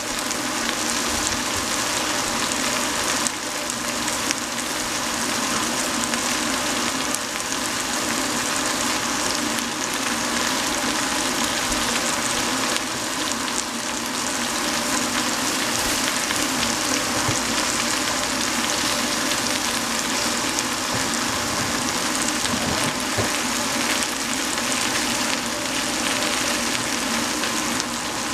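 Vegetables (shredded cabbage, carrot and shiitake mushroom) frying in hot oil in a steel stockpot on a gas stove, giving a steady, even sizzle.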